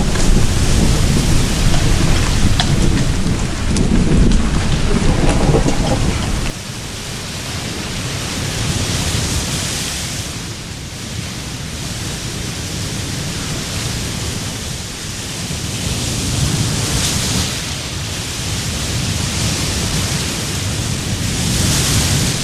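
Heavy rain pouring down in a thunderstorm, with a loud low rumble for the first six seconds or so. The rumble stops abruptly and leaves a steady hiss of rain that swells and eases every few seconds.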